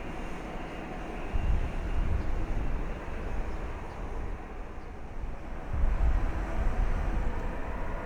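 Low, steady rumble of jet airliner engines, swelling about a second and a half in and again near six seconds.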